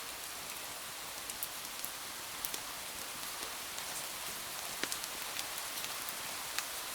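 Steady rain falling in an even hiss, with scattered sharp clicks and pops.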